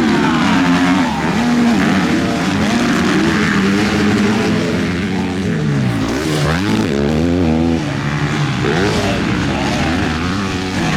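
Several MX2 motocross bikes racing, their engines revving up and down as they shift, with overlapping rising and falling pitches. About six seconds in, one engine's pitch drops steeply and then climbs again.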